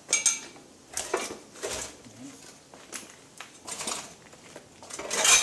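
Metal parts clanking as they are handled and knocked together: about six sharp hits, some with a short metallic ring.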